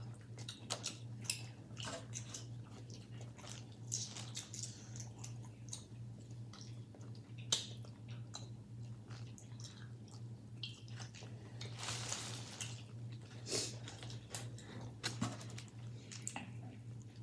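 Chewing, with small clicks and crackles, of people eating a seafood boil at close range, over a steady low hum.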